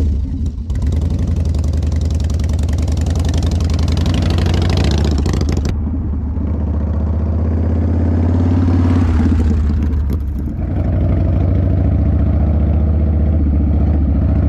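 Harley-Davidson V-twin motorcycle engine running while riding off-road on dirt trails. It rises and eases, with a brief drop about ten seconds in.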